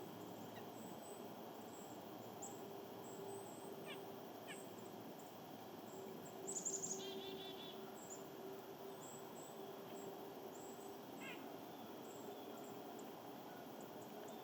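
Small songbirds calling faintly: thin high chips scattered throughout, a couple of short falling notes, and a brief rapid twittering call about six and a half seconds in, over a faint steady hum and background hiss.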